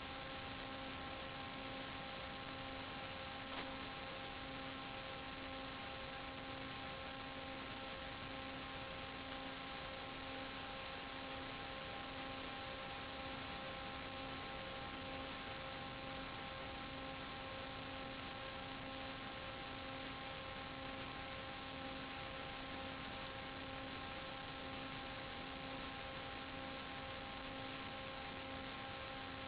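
Steady electronic hum and hiss: a low buzzing hum made of several steady evenly stepped tones over an even hiss, unchanging throughout.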